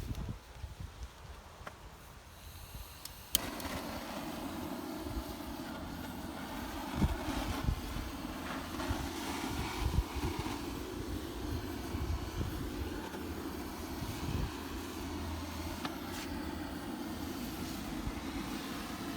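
A gas burner's valve is opened with a click about three seconds in, then gas rushes out in a steady hiss without catching alight.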